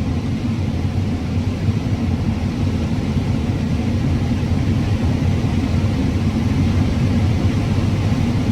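Combine harvester running steadily while cutting corn: a dense, steady low rumble that gets slightly louder toward the end.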